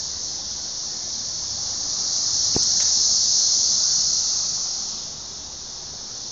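Chorus of Brood XIX periodical cicadas, a loud, steady, high-pitched drone that swells about three seconds in and dips near the end. A brief click about two and a half seconds in.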